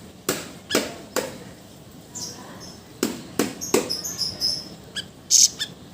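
A small cage bird gives short, high chirps and squeaks, mixed with several sharp taps or knocks.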